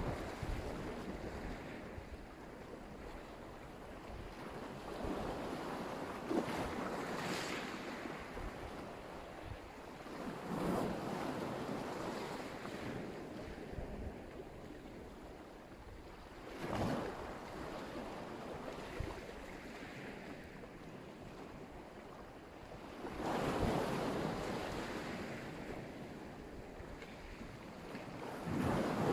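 Black Sea surf: waves breaking on the shore about every five to six seconds, each a rush that swells and fades into a steady wash.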